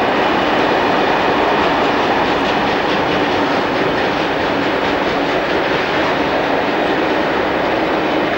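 Diesel train running through the station, a steady loud rumble of engine and wheels on rail, with wheels clicking over rail joints a few seconds in.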